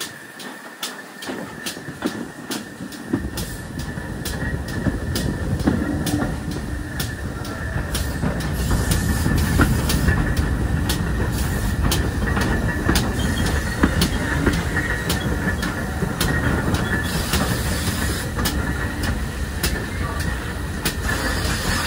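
Steam-hauled train running along the track: regular clicking of wheels over rail joints, about two a second, over a steady high wheel squeal. The rumble builds from about three seconds in and is loudest near the middle.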